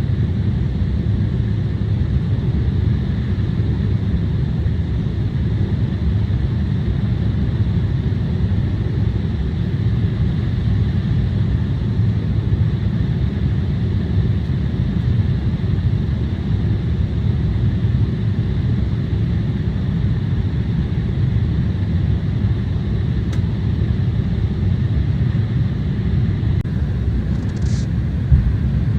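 Steady rumble of an Embraer 175 airliner's engines and airflow heard from inside the passenger cabin, with faint steady high tones over it. One brief soft click comes near the end.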